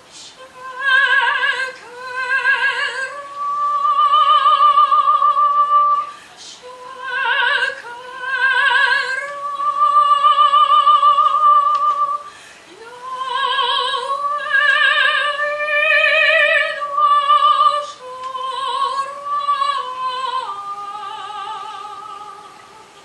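A woman singing solo and unaccompanied in a high operatic voice with wide vibrato, in long held phrases with short breaths between them; the melody steps down lower near the end.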